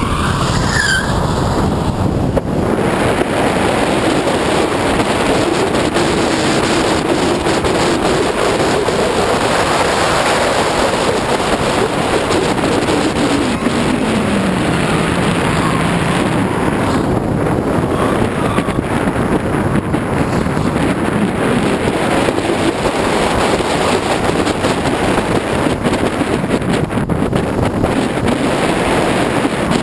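Subaru Forester 2.5XT's turbocharged flat-four engine driven on track, its note falling to its lowest about halfway through and then rising again, under heavy wind rush on a bonnet-mounted microphone.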